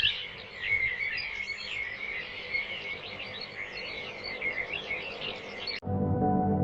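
Birds chirping and singing, many short warbling calls overlapping. Near the end it cuts suddenly to ambient music with long held tones.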